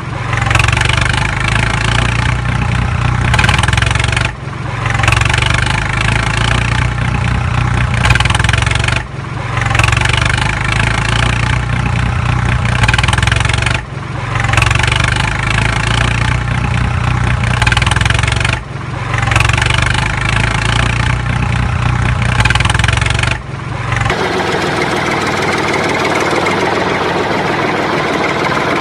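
Engine sound running in a repeating cycle: about every four to five seconds it drops out briefly and comes back. About 24 seconds in it changes to a steadier, thinner sound.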